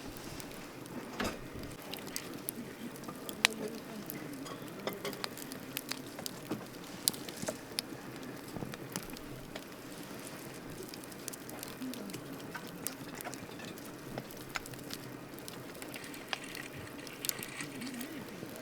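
Wood campfire burning, crackling with frequent irregular sharp pops over a steady soft hiss; one pop about three and a half seconds in stands out as the loudest.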